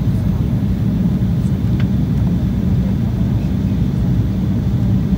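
Steady low rumble inside the cabin of an Embraer E190 airliner in flight: the drone of its GE CF34 turbofan engines mixed with airflow noise.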